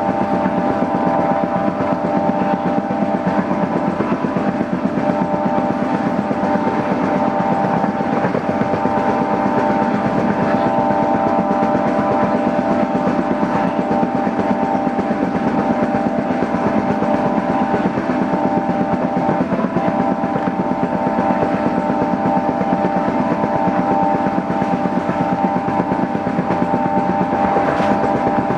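Steady mechanical noise of a diesel-hauled passenger train, carrying a constant hum of several held tones.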